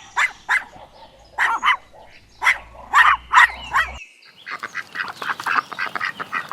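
Puppy yelping in short separate calls, about one every half second to a second. About four seconds in the sound changes abruptly to a rapid chatter of many short calls.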